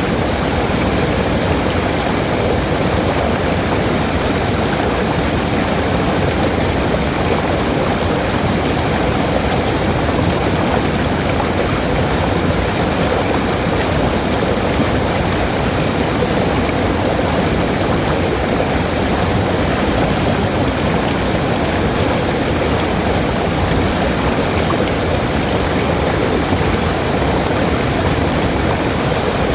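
Waterfall, a steady, loud rush of falling water.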